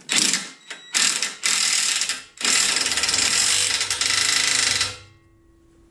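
Socket ratchet clicking as a suspension arm bolt is done up, in four runs of strokes, the last and longest lasting about two and a half seconds before stopping.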